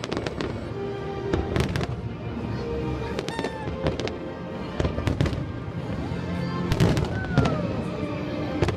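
Aerial fireworks bursting in a rapid, irregular string of sharp bangs and crackles.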